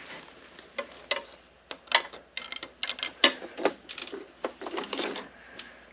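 Irregular sharp clicks and light knocks of hand tools working on an opened small lawn tractor engine, about a dozen scattered strikes of varying loudness.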